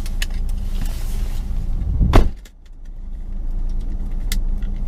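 Car cabin noise with a steady low rumble, broken about two seconds in by a short, loud noise, after which the sound briefly drops away before the rumble resumes.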